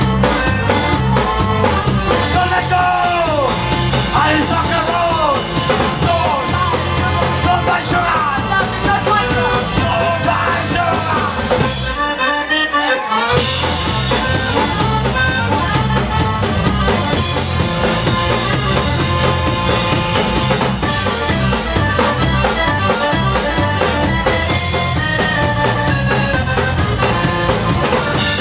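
Upbeat instrumental passage by a band, with driving bass and drums under a lead line of bending notes; the bass and drums drop out for about a second near the middle, then the full band comes back in.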